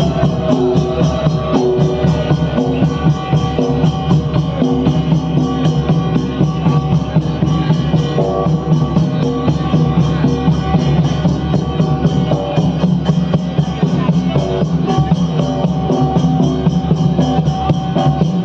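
Instrumental Danda Nacha folk music: a fast, steady drum beat under held melodic notes, with no singing.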